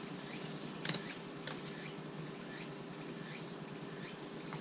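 Steady outdoor insect buzzing with short chirps repeating about twice a second, and one sharp click about a second in.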